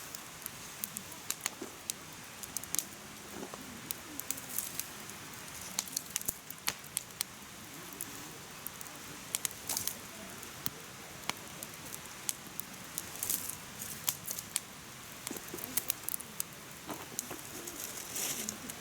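Firewood burning in a mesh fire stand, crackling and popping irregularly, several sharp pops a second at times, over a steady soft rush of the flames.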